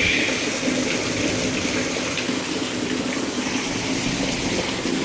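Heavy downpour: a steady rush of pouring, gushing water.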